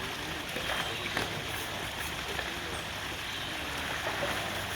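Steady rushing and splashing of water at an elephant bath, with a few light splashes about a second in.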